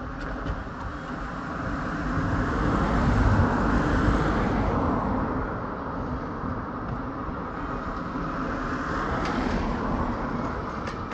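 Train passing: a rumble that swells to a peak about three to four seconds in and eases off, then builds again near the end with a few clicks from the wheels on the rail.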